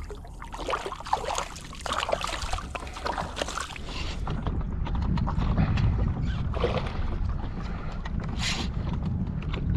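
Knocks, clatter and water sounds on a fishing kayak over the first few seconds, giving way to wind rumbling on the microphone with a few scattered clicks.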